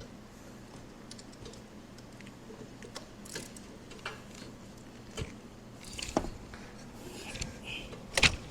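Light metallic clinks and rattles of tools and parts being handled, with a few sharper knocks, the loudest near the end.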